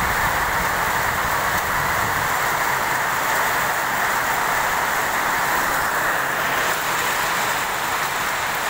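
Steady rain falling on a corrugated metal platform roof, an even hiss that keeps the same level throughout.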